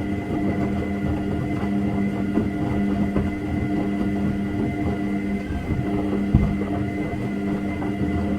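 Washing machine running: a steady motor hum with a thin high whine over it, and irregular light knocks and clicks throughout.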